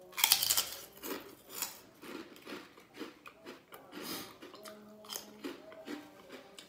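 A crisp shrimp chip bitten with a loud crunch just after the start, then chewed with a string of shorter crunches through the rest.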